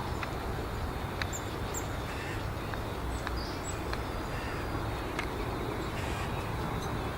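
Birds calling in short, scattered chirps and calls over a steady low background rumble.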